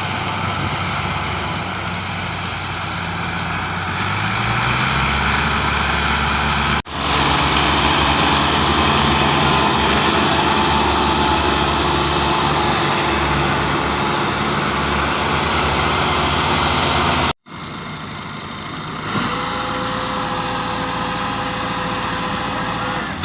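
Tractor diesel engine running steadily, its pitch rising about four seconds in as the revs go up. The sound breaks off abruptly twice; after the second break the engine is quieter.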